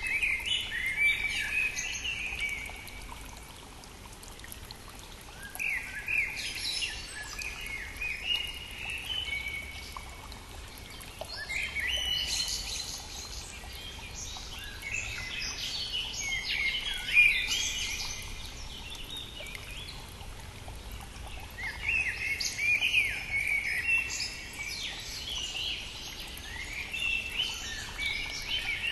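Songbirds singing in spring, bursts of quick chirping song phrases every few seconds, over the steady rush of a brook.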